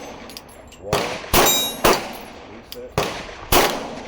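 A string of 9mm pistol shots from a Glock 19X, about five at an uneven pace, with the clang of steel targets being hit.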